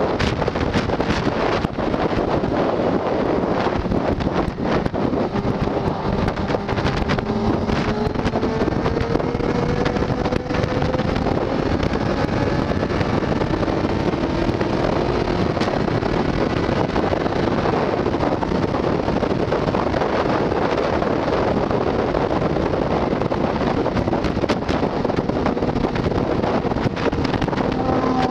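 Motorcycle engine running steadily on the road, its pitch drifting slowly up and down, under heavy wind noise on the microphone.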